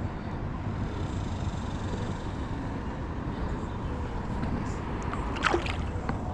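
Steady rushing of flowing river water around a wading angler, with a low rumble, and one brief sharper sound about five and a half seconds in.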